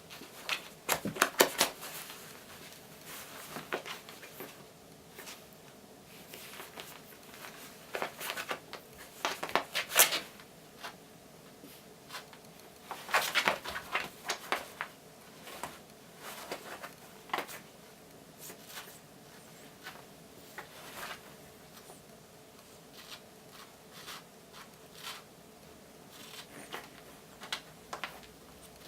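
A cat clawing, biting and kicking at a homemade silvervine-filled kicker toy: irregular bursts of scratching and rustling with light knocks, heaviest about a second in, around nine to ten seconds and around thirteen seconds in.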